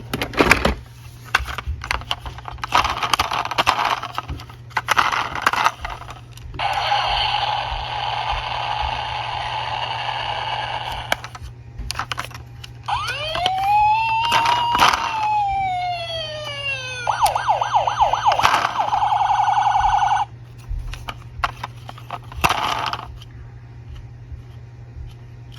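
Toy police car's electronic siren sounding: a steady electronic tone, then a rising-and-falling wail, then a fast pulsing yelp. Sharp clicks of small toy cars knocking and clattering come in between.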